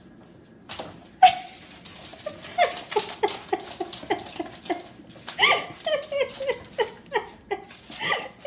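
An animal giving a fast run of short yelping calls, each dropping in pitch, about three to four a second, with a brief break midway. A single sharp knock comes just before the calls start and is the loudest sound.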